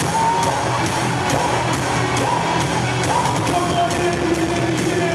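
Live worship band music with held sung notes and a steady drum beat, and a crowd singing and cheering along.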